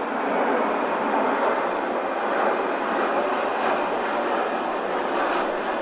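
Strong storm wind blowing, a steady rushing noise that eases slightly near the end.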